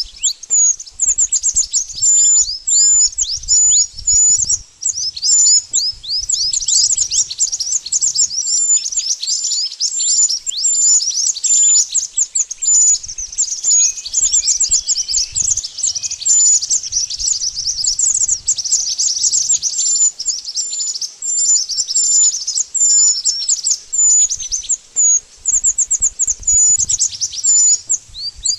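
Malaysian pied fantail (burung mantenan) singing: an unbroken stream of rapid, high chirps, many a second, each a quick downward sweep.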